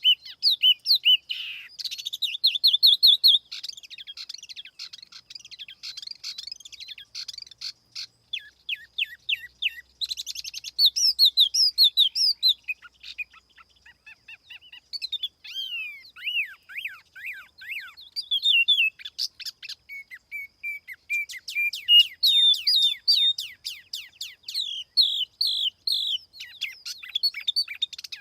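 Tiểu mi songbird singing a fast, high-pitched run of whistled notes and chirps, with short pauses between phrases. It is a clean lure-call recording, the kind played to draw in other tiểu mi.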